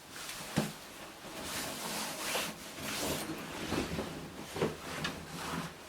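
Irregular rubbing and scraping, like wood being handled, with a sharp knock about half a second in.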